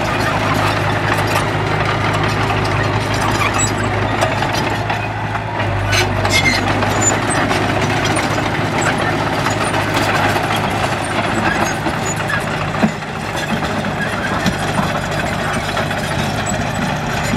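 Diesel engine of a heavy earthmoving machine running steadily, with the clatter and rumble of the machine working gravel.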